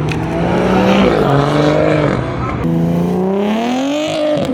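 Car engine accelerating hard. Its pitch climbs, falls back about a second in, climbs again, then makes a long rise that drops near the end, like upshifts through the gears.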